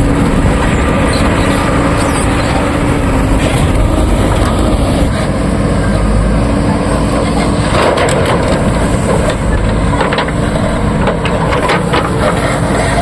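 JCB 3DX backhoe loader's diesel engine running loud and steady under load while it digs and loads red mud, with a run of sharp knocks and scraping from about eight seconds in.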